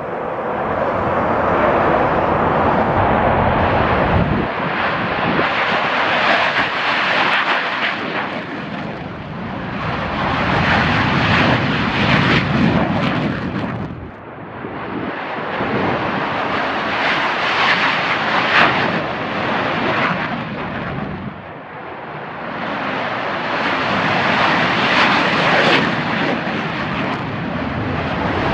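Several F-16 fighter jets' turbofan engines roaring past one after another, the noise swelling and fading in several long waves with two brief lulls.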